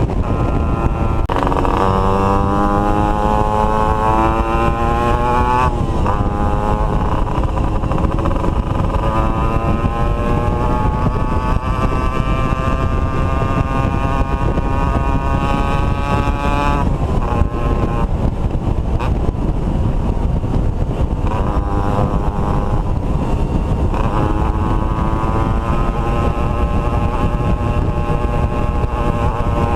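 Two-stroke motorcycle engine riding under power, its pitch climbing for several seconds and dropping sharply a few times as it shifts gear. A steady rushing noise runs underneath.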